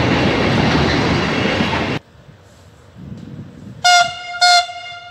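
Container freight wagons rolling past on the rails, a steady rumble and clatter that stops abruptly about two seconds in. Near the end an approaching train sounds its horn in two short blasts about half a second apart.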